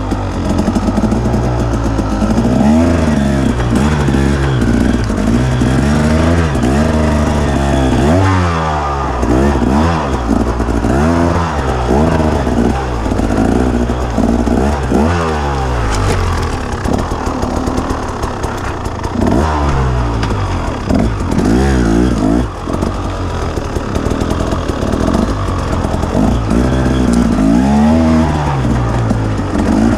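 Dirt bike engine running and being revved over and over, its pitch climbing and dropping every second or two with no break.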